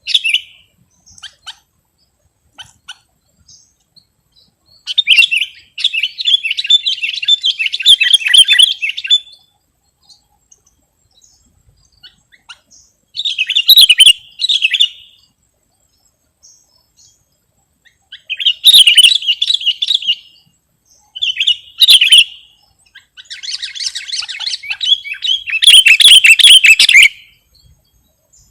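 Sooty-headed bulbul (kutilang) singing in about five bouts of rapid, high notes, each lasting from one to four seconds, with short pauses between them; the longest and loudest bout comes near the end.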